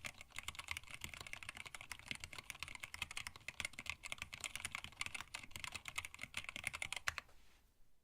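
Fast typing on a hand-wired split mechanical keyboard with Tealios linear switches, blank PBT keycaps and a stacked acrylic case: a dense, rapid patter of keystrokes. The typing stops about seven seconds in.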